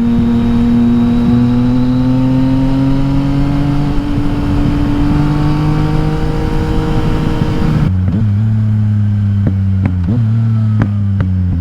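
Yamaha XSR900's inline three-cylinder engine through an Akrapovič exhaust, pulling under load with its pitch slowly rising for about eight seconds. It then drops to a lower note off the throttle, with several sharp exhaust backfires popping on the overrun.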